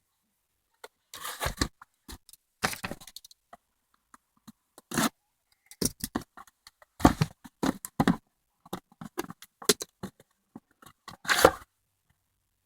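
Irregular short scrapes, knocks and rustles of a cardboard fireworks artillery-shell kit box being handled and opened, a dozen or so brief bursts with quiet gaps between.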